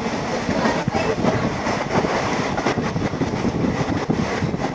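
A moving passenger train heard from on board: a steady rumble and clatter of the coach's wheels on the track.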